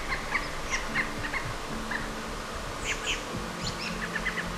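Small songbirds giving short, quick chirps in scattered clusters, with a brighter run of higher chirps about three seconds in.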